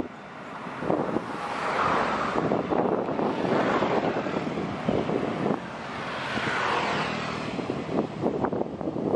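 Passenger train running away onto a steel truss bridge: a steady rumble of its wheels with scattered clacks, mixed with wind rushing on the microphone in two swells.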